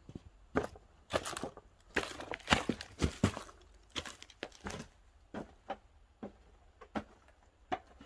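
Pine firewood crackling as it burns in a wood-fired pottery kiln: irregular sharp cracks and pops, thickest in the first half.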